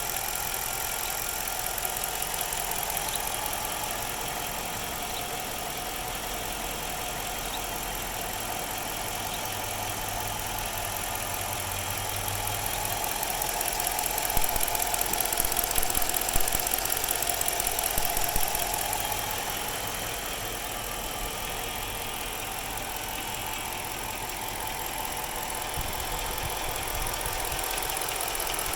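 2006 Chrysler 300C's 5.7-litre Hemi V8 idling roughly, the uneven idle its owner is showing. About halfway through it gets louder for a few seconds with some sharp peaks, then settles back.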